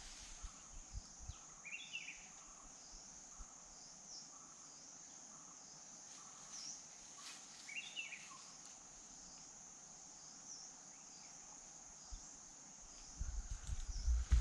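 Faint, steady high-pitched chirring of insects, with a couple of short bird chirps about two seconds and eight seconds in. Near the end a low rumbling noise comes up.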